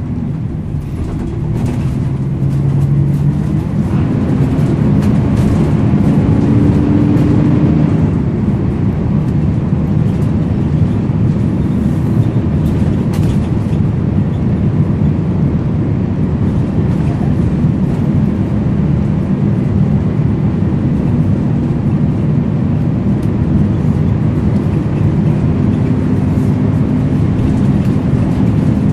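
Volvo B10BLE bus's diesel engine heard on board while the bus is under way, its note rising and falling as it pulls away and changes speed.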